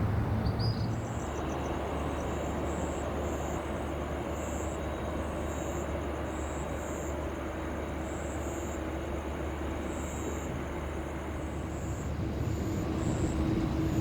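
Jet airliner engine noise, a steady rumble that swells a little near the end.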